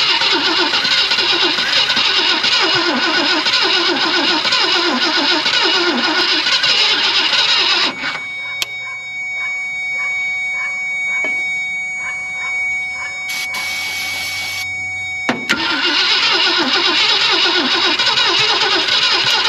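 Starter cranking the 1965 Ford Thunderbird's 390 V8 in two long spells, the first about eight seconds long, then again after a pause, without the engine catching. It cranks but won't fire because the fuel pump is not delivering any fuel.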